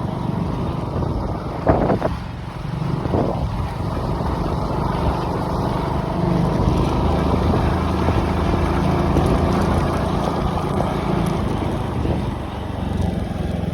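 Motorcycle engine running steadily under way on a rough, broken road, with wind on the microphone. Two brief louder sounds stand out about two and three seconds in.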